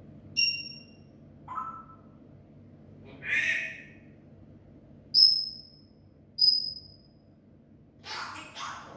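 Grey parrot whistling and calling: a whistle near the start, a shorter lower call, a raspy squawk, then two loud high-pitched whistles about a second apart, and two harsh, noisy calls near the end.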